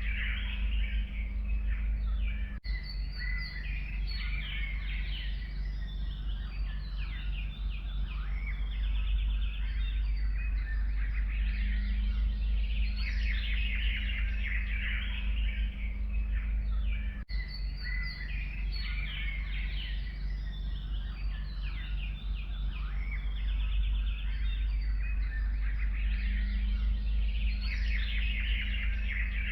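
Forest songbirds chirping and singing in a dense chorus of several birds, over a steady low rumble, with two momentary dropouts.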